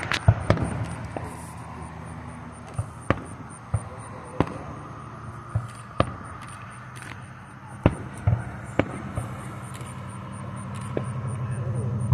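Fireworks going off: a dozen or so sharp bangs and pops at irregular intervals, over a steady low hum.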